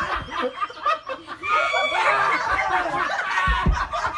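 Laughing: chuckles and snickers.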